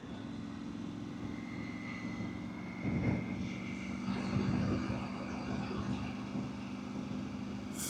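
Motorcycle engine running at a steady speed while riding, with a faint high whine above it and a louder swell about three seconds in. A sharp click comes near the end.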